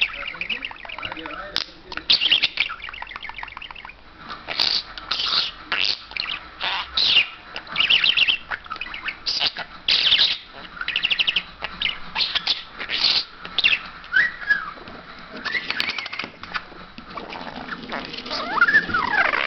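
Pet talking bird chattering in a rapid run of short, harsh, high-pitched squawks and calls. Toward the end these give way to gliding whistled notes.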